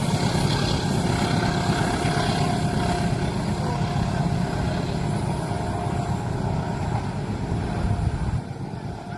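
Train passing over a level crossing: a steady, heavy rumble that drops off sharply about eight seconds in.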